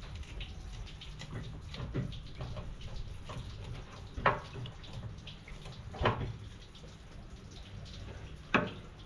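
Water splashing and dripping in small irregular spatters over a low rumble, with three louder sharp splashes about four, six and eight and a half seconds in.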